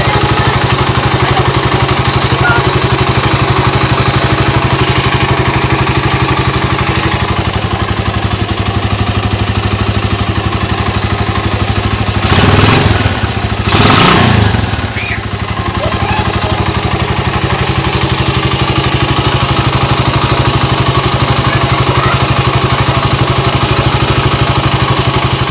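Suzuki Raider 150's single-cylinder engine idling on a 28 mm Keihin carburetor fitted with a velocity stack, blipped twice with two short revs about halfway through. The idle sits a little higher with the stack, around 1600 RPM by the owner's estimate, and wavers slightly.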